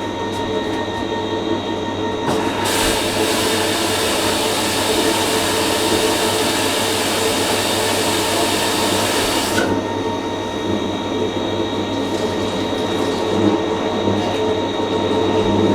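Fisher & Paykel MW512 washing machine running with a steady mechanical hum. A loud rushing hiss joins it about two and a half seconds in and cuts off suddenly about three quarters of the way through.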